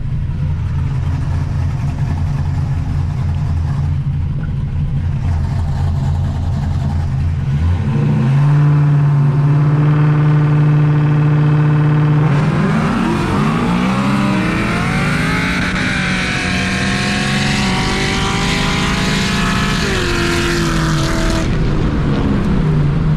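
Car engine idling, then brought up to a higher steady rev and held for a few seconds. It then accelerates hard in a street race, the engine pitch climbing and dropping back at each upshift, before lifting off near the end.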